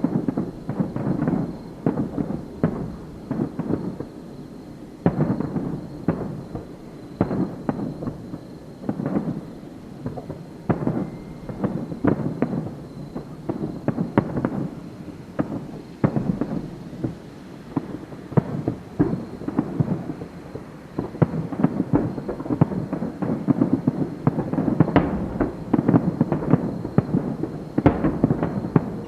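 Fireworks display: aerial shells bursting in quick, irregular succession, each bang followed by a rumbling echo, with the bangs coming thicker near the end.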